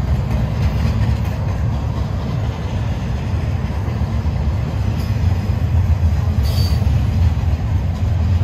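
A double-stack intermodal freight train rolls past, its container well cars making a steady, loud rumble of steel wheels on rail. About six and a half seconds in there is a brief high-pitched wheel squeal.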